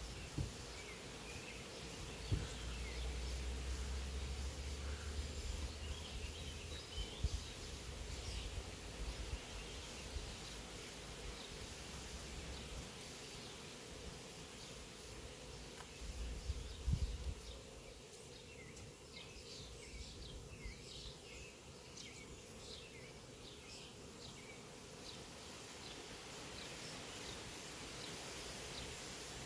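Honey bee swarm buzzing: a steady hum of many bees in flight. Low rumbles and a few thumps run through the first half or so.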